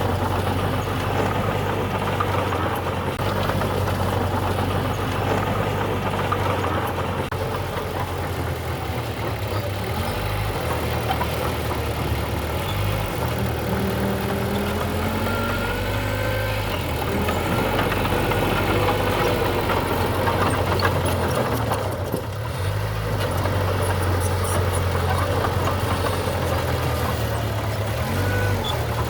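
Heavy diesel engine of earthmoving machinery running steadily, with a deep, even hum. Faint squeals rise and fall over it midway through.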